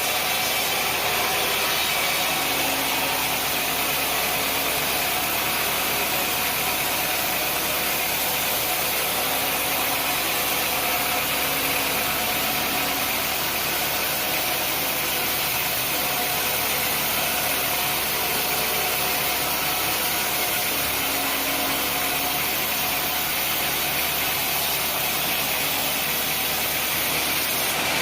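Sawmill machinery running steadily, with a continuous engine-like noise.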